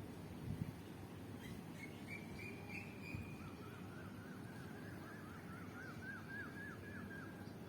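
Birds calling over a steady low background rumble: a short call about two seconds in, then a rapid run of repeated chirps that climbs slightly in pitch through the second half. Two soft thumps sound early on.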